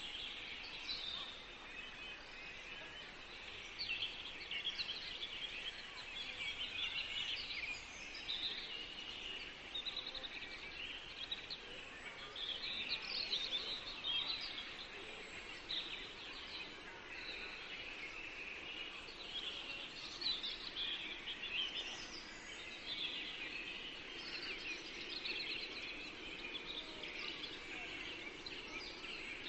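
Several songbirds singing at once in a forest: a dense, continuous chorus of overlapping high chirps and trills.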